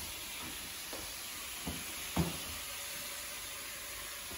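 Venison and carrots sizzling quietly in a stainless steel pot, a steady hiss, with a few soft knocks, the loudest about two seconds in.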